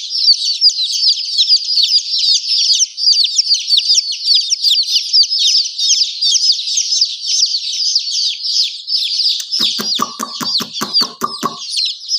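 A brood of baby chicks peeping continuously: many short, high, downward-falling peeps overlapping. Near the end there is a quick run of about ten sharp clicks or clucks, about five a second.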